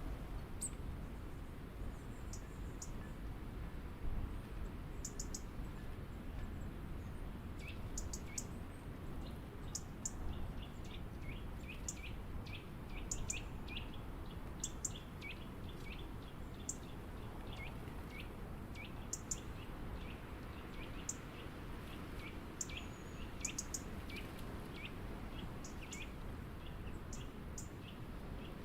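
Small birds at a backyard feeder calling in many short, quick downward chirps, which grow frequent about a third of the way in, with thin high ticks scattered throughout, over a steady low background rumble.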